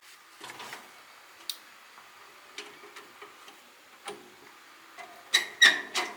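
Scattered clicks and knocks, then a quick run of louder, sharp clanks near the end.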